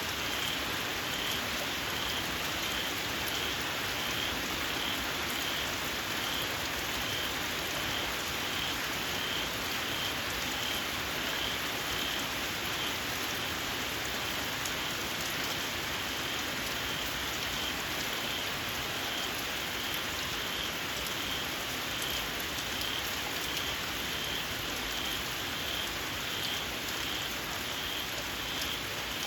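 Steady rain falling on the fields, with a small frog calling in short high notes repeated evenly about one and a half times a second.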